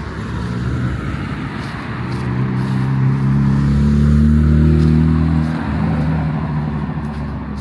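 A car driving out under acceleration, its engine note building and getting louder, then cutting back suddenly about five and a half seconds in before fading.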